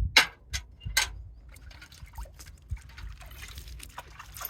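Water poured onto the ground, most likely to water a newly planted sapling. It splashes in two strong gushes in the first second, then trickles and patters, over a steady low rumble.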